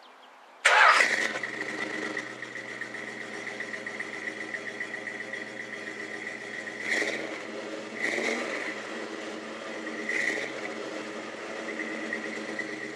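A 1993 Ford Mustang Cobra's V8 engine starts with a sudden loud catch about half a second in, then idles steadily with a constant high whine, with three short blips of the throttle toward the middle and end.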